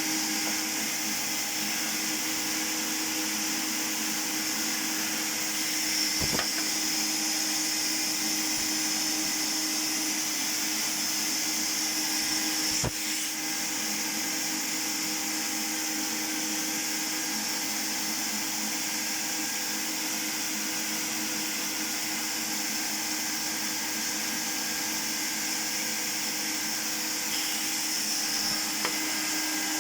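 A Zelmer vacuum cleaner's motor running steadily with a hum and an airy hiss, used as the air source for spray painting. There are two brief knocks, one early and one near the middle.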